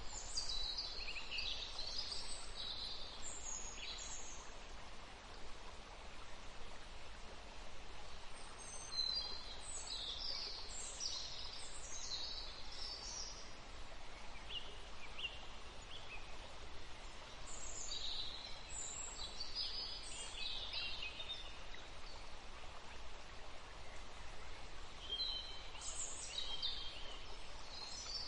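Birds singing: clusters of short, high chirps every several seconds over a steady background hiss.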